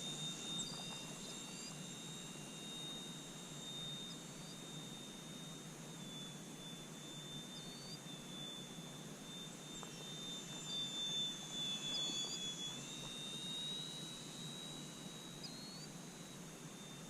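Small electric RC airplane's brushless motor and propeller whining faintly in flight, a thin steady high tone whose pitch dips slightly a few times as the throttle or distance changes.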